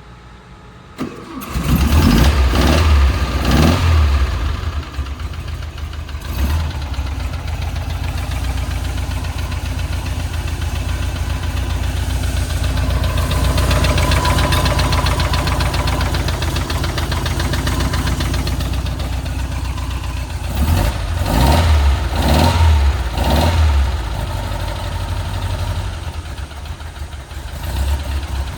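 1964 Porsche 356C's air-cooled 1.6-litre flat-four, fed by twin Dellorto carburettors, cold-started: it catches about a second and a half in and takes a few revs, then settles into a steady idle. Near the end it is revved a few more times and drops back to idle.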